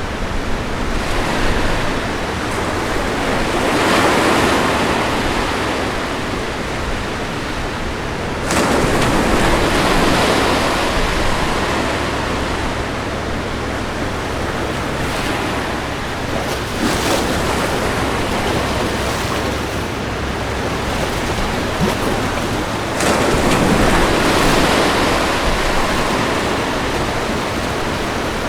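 Ocean waves breaking on a beach in a continuous wash of surf, swelling louder with each breaker, about every six to eight seconds.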